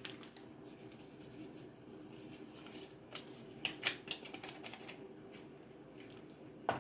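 A small foil seasoning packet (Sazon) being torn open and shaken into the pot: irregular crinkling and light clicks, busiest in the middle, over a faint steady hum.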